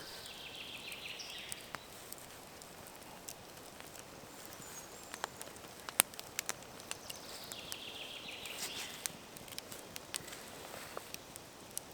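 Faint scattered small clicks and ticks, one sharper about six seconds in, over a soft hiss that swells briefly at the start and again about nine seconds in.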